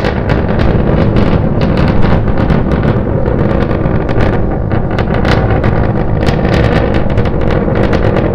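Starship SN9's Raptor rocket engines burning in flight: a loud, continuous rumbling roar full of sharp crackles.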